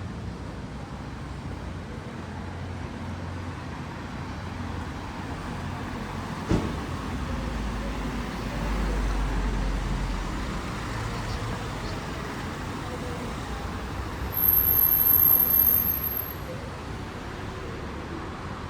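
City street traffic ambience with motor vehicles passing and a low engine rumble swelling midway. A single sharp knock comes about six seconds in, and a very high-pitched whine lasts about two seconds near the end.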